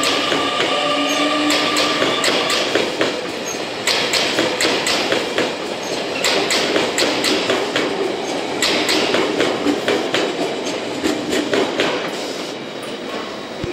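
JR Kyushu 885 series electric limited express rolling past: wheels clicking over the rail joints in quick groups, with a motor whine in the first few seconds. The sound fades near the end as the last car clears.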